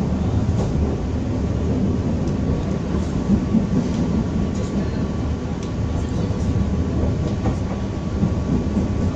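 Passenger train running along the track, heard from inside the carriage: a steady low rumble of wheels on rail, with a few faint clicks.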